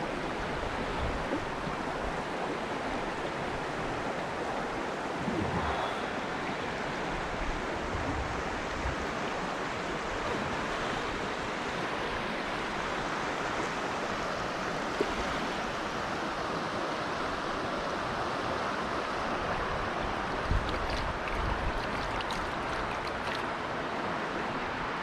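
Steady rush of a small river's flowing water, with a couple of brief knocks, about fifteen and twenty seconds in.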